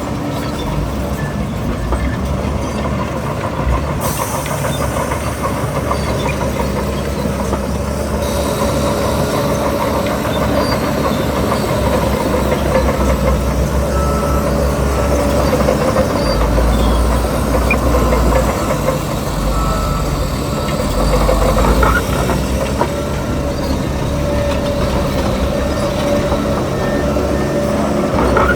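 Crawler bulldozer working: its heavy diesel engine runs steadily, with a deep rumble that swells for a few seconds past the middle.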